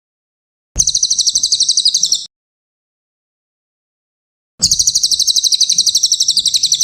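Cililin (Javan hanging parrot) song from a training recording: two bursts of fast, evenly repeated high chips, about a dozen a second. The first starts about a second in and lasts a second and a half, and the second starts near the end, with silence between.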